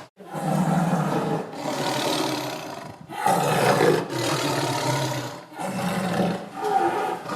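Tiger roaring and growling: a string of about six rough calls, each about a second long, with short breaks between them.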